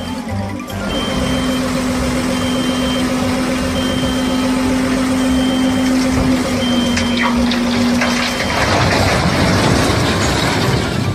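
Heavy truck or construction-vehicle engine running, with a reversing alarm beeping about once a second. For the last two or three seconds a louder rushing noise takes over as the beeps stop.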